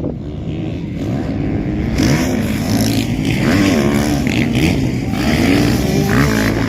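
Motocross dirt bike engines revving hard, the pitch climbing and dropping again and again as the throttle opens and shuts, with more than one engine heard at once.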